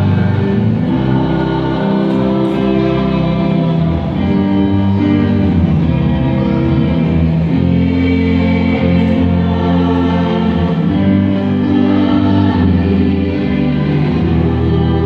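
A church choir singing a hymn in long, held notes, with no break.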